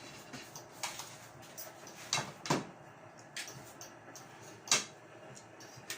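Dishes and cutlery being handled at a meal: scattered clicks and knocks, with two louder knocks about two seconds in and the loudest one just before five seconds.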